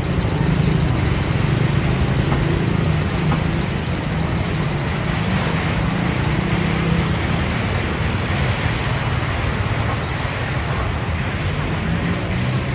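A van and an SUV driving slowly past close by, engines running with a steady low rumble.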